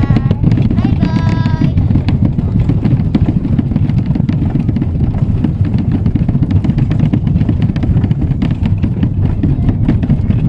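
Steady low rumble of a miniature ride-on train running along its track, heard from aboard, with a child's brief vocal about a second in.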